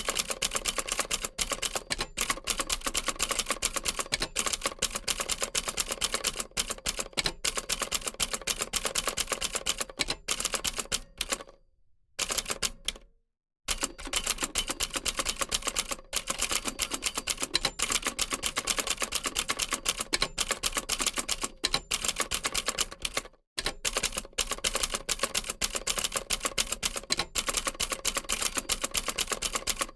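Old typewriter typing: a fast, continuous run of key strikes that breaks off for about two seconds near the middle, with a brief pause later on.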